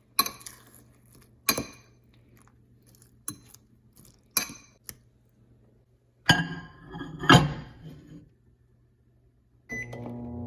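Dishes clinking sharply a few times, then a clattering flurry of knocks. Near the end a microwave oven beeps and starts running with a steady hum.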